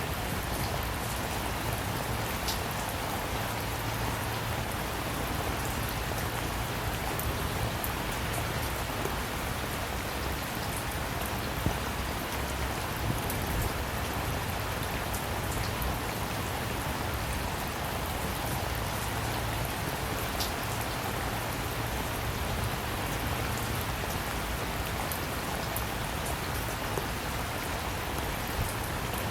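Steady rain falling, a constant hiss with many small drop taps scattered through it.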